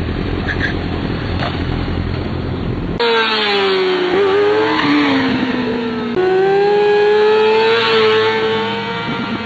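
Sport bike engine running, first as a steady low rumble with wind noise, then cutting abruptly about three seconds in to a high-revving engine whose pitch rises and falls. A second abrupt change comes about six seconds in.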